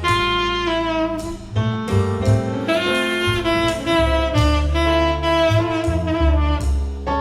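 Recorded tenor saxophone playing a slow jazz ballad, reproduced through ATC SCM 11 bookshelf speakers and picked up in the room. It plays long held notes, with low bass notes underneath that grow heavier about four seconds in.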